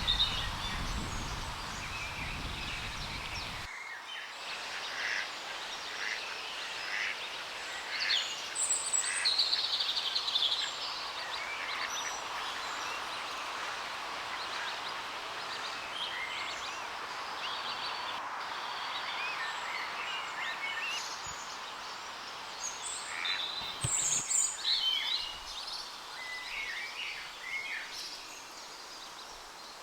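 Outdoor birdsong: several small songbirds singing and calling in short phrases, over a steady background hiss. A low rumble underneath stops suddenly about four seconds in.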